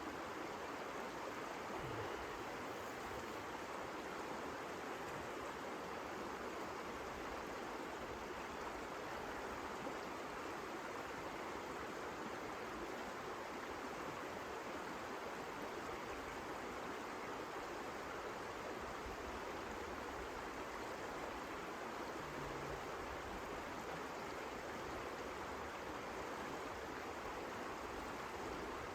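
Steady, unbroken rushing noise at an even level, without distinct clicks or pitched sounds.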